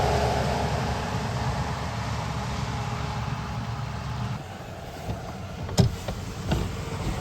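A passing truck's engine and tyre noise fading away, dropping off about four seconds in, followed by a few sharp knocks near the end.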